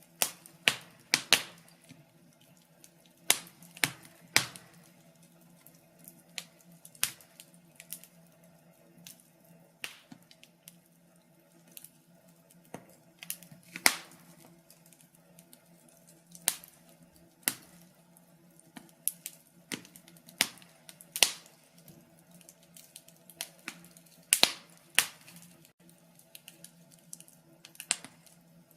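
Wood fire crackling in a fireplace: irregular sharp pops and snaps at no set rhythm, a few much louder than the rest, over a faint steady hum.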